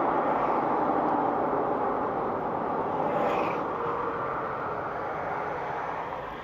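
Steady road and engine noise of vehicles on the move, slowly fading toward the end, with a brief higher-pitched sound about three seconds in.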